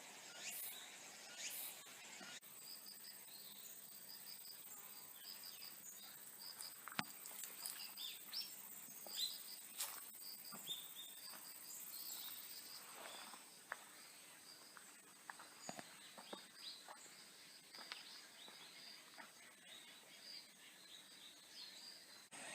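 Faint insects calling in a forest: short high chirps repeated in runs over a steady high trill, with scattered sharp clicks and snaps.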